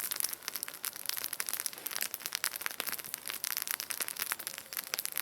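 Fresh pine needles being snapped into small pieces by hand: a dense, irregular run of many quick little snaps.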